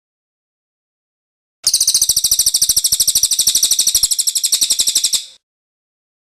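Cililin bird singing its rolling song: one fast, even trill of high notes, about ten a second, starting under two seconds in and lasting about three and a half seconds before fading out.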